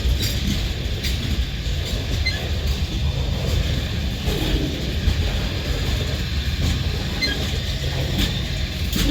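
Freight train cars rolling past with a steady low rumble, a few wheel clicks over the rail joints and occasional faint squeaks.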